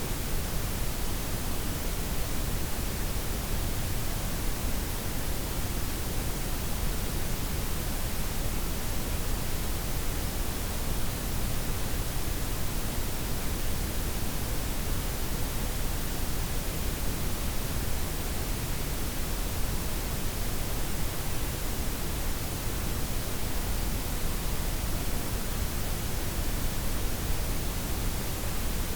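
Steady synthetic noise blend of white, pink and brown noise, an even hiss with a deep rumbling floor and softened highs, unchanging throughout.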